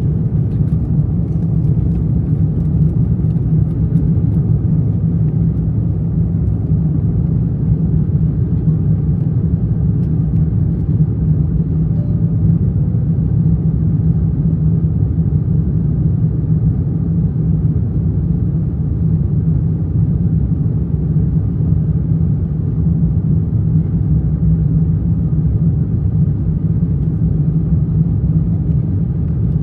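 Steady low rumble inside the cabin of an Airbus A350-900 in flight: airflow over the fuselage and its Rolls-Royce Trent XWB engines, unchanging throughout.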